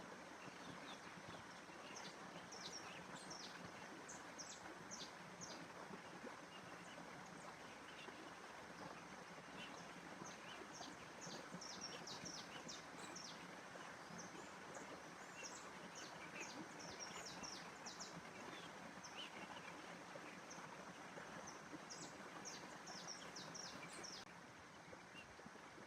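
Nature ambience: small birds chirping in quick, high, scattered calls over a faint steady rushing noise.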